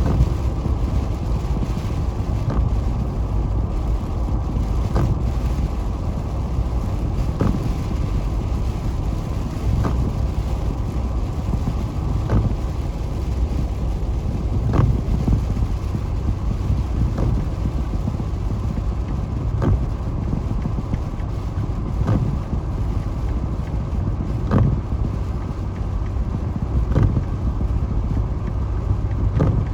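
Steady road and engine rumble inside a car driving through snow on the interstate at about 35 mph. A short click about every two and a half seconds, the windshield wipers sweeping away falling snow.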